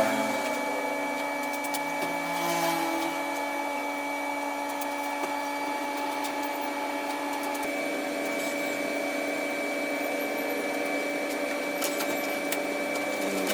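Small electric motor running steadily with a high whine and a few light clicks.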